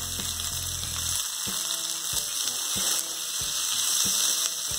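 Chopped onions, ginger, garlic and green chillies sizzling in hot oil in a kadai as they are stirred with a spatula, a steady frying hiss.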